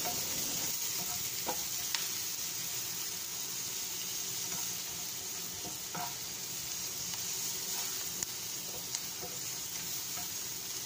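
Sliced onions and garlic sizzling steadily in oil in a frying pan, with a few light taps and scrapes of a spatula against the pan as they are stirred.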